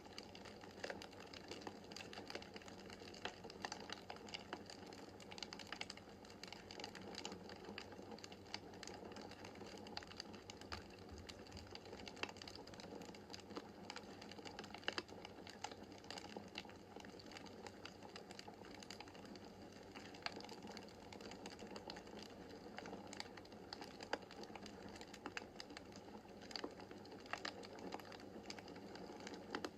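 Wood fire crackling in a fireplace: irregular sharp crackles and pops over a soft, steady hiss of burning logs.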